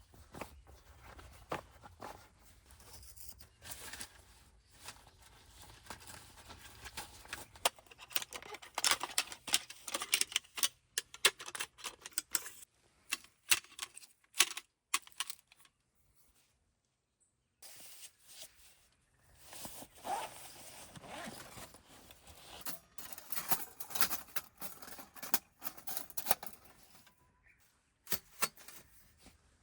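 Rustling, crinkling and light clicks of food packages and bags being handled, coming in busy spells and breaking off briefly about halfway.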